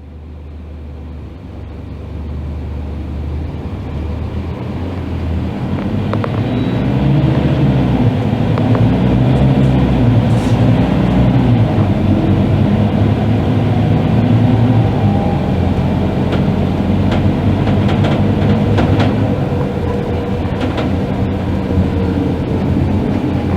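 Diesel engine of a Scania K310IB bus running under way. It grows louder over the first several seconds and then holds steady, with a few sharp clicks or rattles in the second half.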